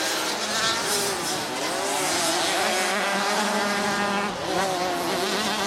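Several small 50 cc two-stroke motocross bikes revving on the track, their high-pitched engine notes overlapping and rising and falling as they accelerate and ease off.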